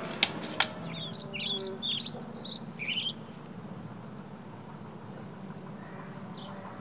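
Two sharp clicks, then a bird chirping in a quick run of short high notes for about two seconds, over a steady low hum.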